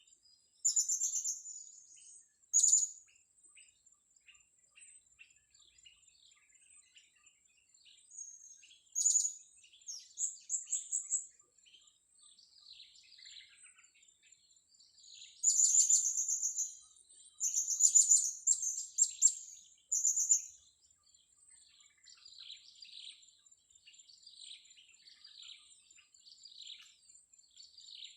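Blue-crowned hanging parrots calling: sharp, very high-pitched chirps in short rapid trills. The loudest clusters come about a second in, again around nine to eleven seconds, and from about fifteen to twenty seconds, with softer twittering in between and after.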